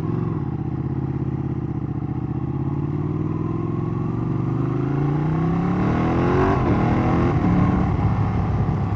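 Ducati 1199 Panigale's V-twin engine under way, its note climbing steadily as the bike accelerates, then breaking about six and a half seconds in and running on.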